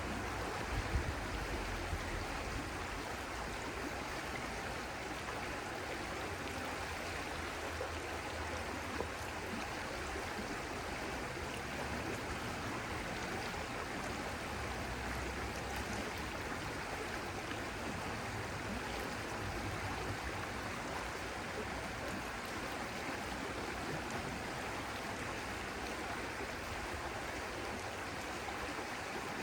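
Stream water flowing and splashing steadily, with a low rumble in the first couple of seconds and again around the middle.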